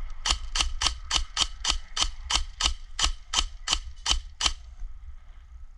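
Airsoft gun firing about sixteen single shots in a steady rhythm of roughly four a second, stopping about four and a half seconds in.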